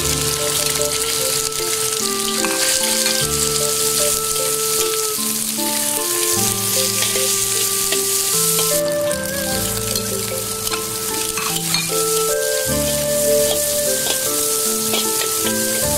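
Diced pork belly sizzling as it fries in a hot wok, stirred with a metal spatula; the sizzle drops a little about nine seconds in. Instrumental background music plays under it.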